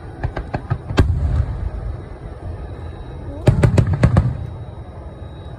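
Fireworks shells bursting overhead: a quick run of sharp bangs building to a loud boom about a second in, then a second dense volley of bangs about three and a half seconds in, with a deep rolling rumble carrying on between.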